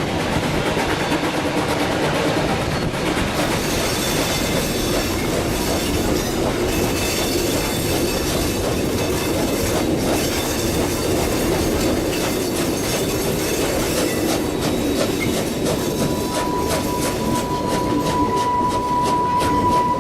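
Steam-hauled heritage train, QR BB18¼ class locomotive 1079 with its carriages, running along the track with a steady rumble and rattle of wheels on the rails. A thin, steady high squeal joins in about four seconds before the end.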